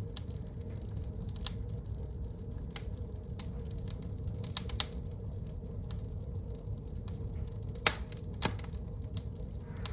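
Wood fire crackling in a fireplace: scattered sharp pops over a low steady rumble, the loudest pop about eight seconds in with another just after it.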